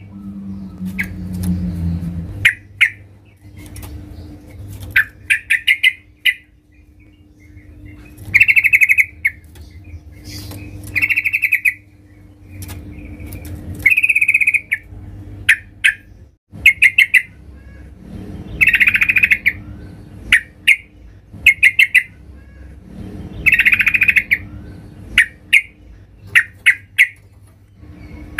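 Female yellow-vented bulbul (trucukan) calling: short bubbly chattering phrases repeated every second or two, the call used to lure a male. A faint steady low hum runs underneath.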